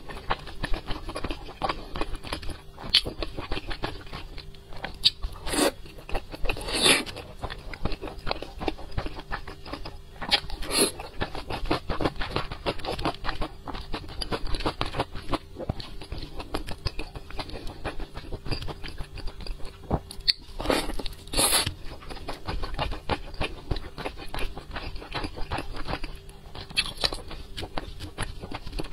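Close-miked mouth sounds of someone eating glazed braised pork belly: wet chewing and biting, a dense run of small clicks and smacks, with several louder sharp bites scattered through.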